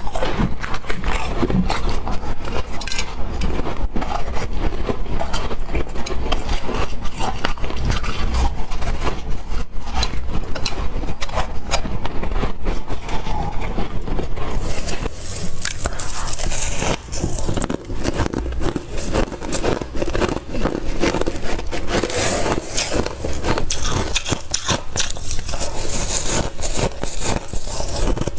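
Ice being bitten and crunched in the mouth, a dense run of crackling, crunching chews.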